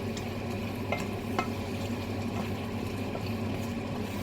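Vegetables in sweet and sour sauce sizzling in a pan over high heat while being stirred, with a few sharp clicks of the utensil against the pan.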